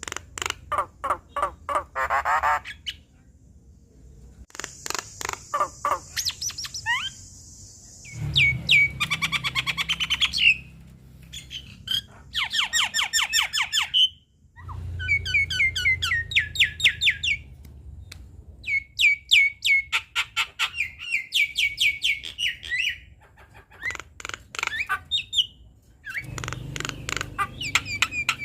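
Javan myna singing: a long, varied chatter of rapid repeated notes and harsh, hissing squawks, in phrases of a few seconds separated by short breaks.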